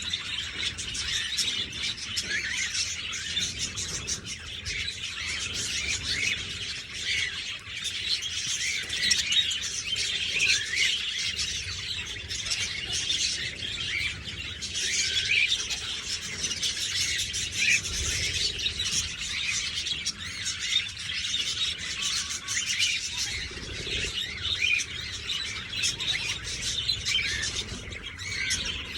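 A flock of budgerigars chattering and chirping without pause, a dense mass of overlapping short high chirps, with many short clicks mixed in.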